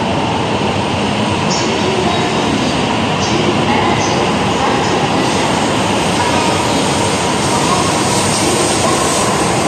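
E6 series Akita Shinkansen train pulling out of the station, its cars rolling steadily past close by, with a few faint brief wheel squeals.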